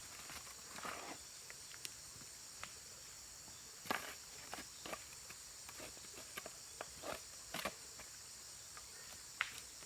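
Steady high-pitched insect chorus, with irregular light clicks and rustles, like footsteps or handling, scattered through it.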